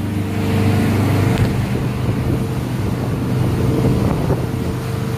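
A 115-foot Broward motor yacht under way: a steady low drone from its diesel engines, with wind rushing over the microphone.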